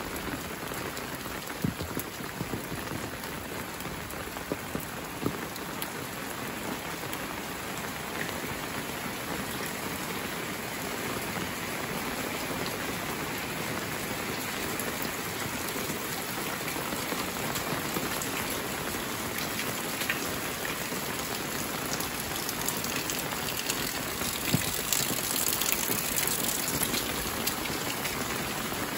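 Steady rain falling on wet paved ground, an even hiss with a few sharper taps; it gets slightly heavier over the last few seconds.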